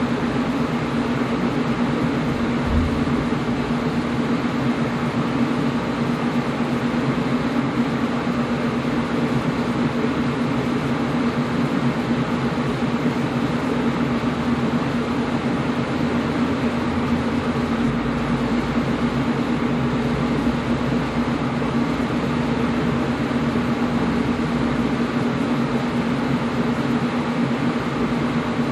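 Air conditioner running steadily: an even rushing of air over a constant low hum.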